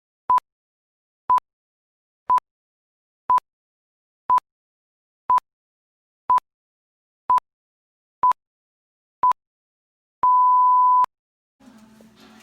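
Electronic beeps at one steady pitch: ten short beeps, one a second, then a single longer beep about ten seconds in, with silence between them.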